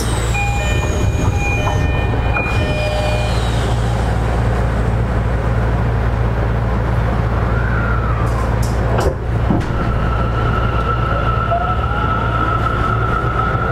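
Tokyo Metro 10000 series train heard from inside a car while running, with a steady rail and wheel rumble. The whine of its Mitsubishi IGBT VVVF inverter and traction motors falls in pitch and stops in the first few seconds. From about two-thirds of the way in, a steady whine returns with tones rising under it.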